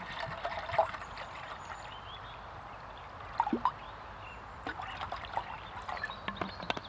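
Water being poured into a cooking container, a steady trickle and splash, with a few short knocks and clicks. The loudest are about a second in and twice around the middle.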